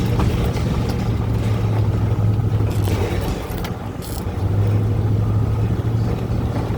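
Vehicle driving as it speeds up to about 30 mph, with a steady engine and road hum that dips briefly about four seconds in, then picks up again.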